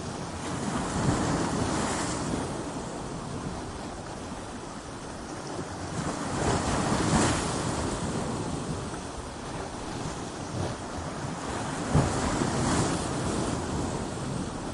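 Ocean waves crashing against rocks: a steady surf wash that swells into three breaks, about one every five to six seconds, the last with a sharp hit.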